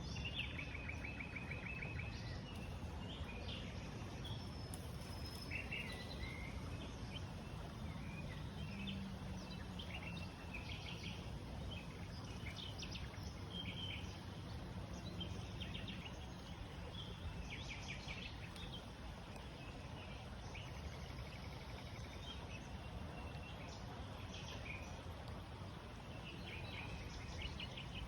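Small birds chirping and trilling in short, scattered calls over a steady low background noise.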